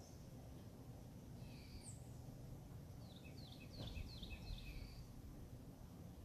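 Birds calling faintly: a few scattered short whistled notes, then a quick run of about six downward-slurred chirps a little past halfway, over a low steady outdoor rumble with a brief low thump in the middle.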